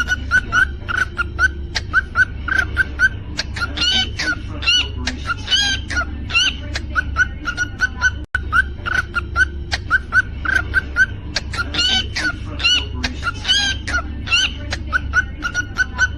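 Cockatiel chirping in a quick, even run of short chirps, about three a second, broken now and then by short whistled notes that swoop up and down. A low steady hum runs underneath.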